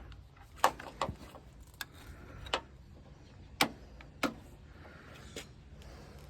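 Small metal and plastic door-latch parts and hand tools being handled inside a truck door: about seven sharp clicks and clinks at uneven intervals.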